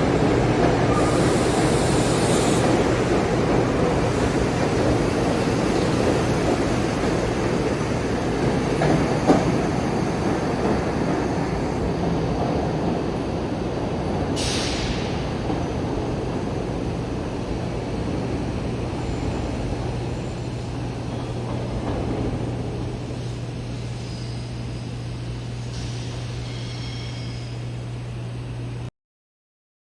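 GE Silverliner IV electric multiple-unit train running in an underground station: a steady electrical hum over rumbling wheel noise that slowly fades. A short hiss comes about a second in and a brief sharp noise about halfway.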